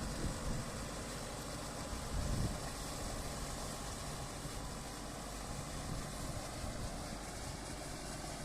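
Kubota MU5501 tractor's diesel engine running steadily, with a brief louder surge about two seconds in.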